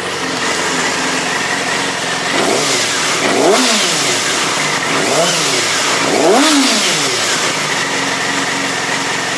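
2007 Yamaha YZF-R6's inline-four engine idling, then revved three times, each rev rising in pitch and falling back to idle. It runs fairly smooth.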